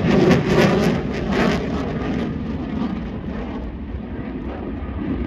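Eurofighter Typhoon FGR4's twin EJ200 jet engines in afterburner, a loud crackling roar that slowly fades as the jet flies away.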